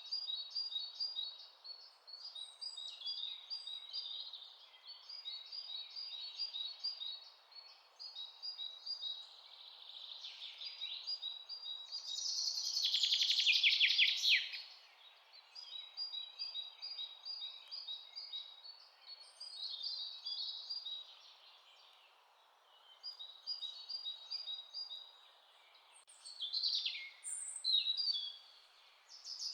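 Several songbirds chirping in quick repeated high notes over a faint steady background hiss, with a louder rapid trill about twelve seconds in and again near the end.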